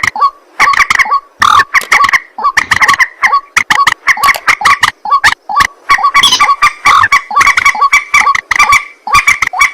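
Recorded calls of a rail, the ruak-ruak of the title: loud, harsh, honking notes repeated rapidly, several a second, in runs with brief pauses.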